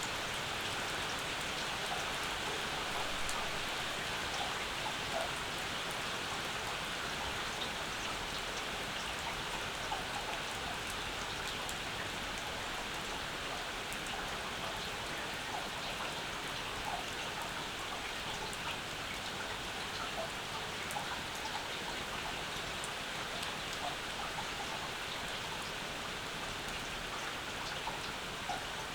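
Steady summer rain falling, an even hiss with scattered louder drops tapping now and then.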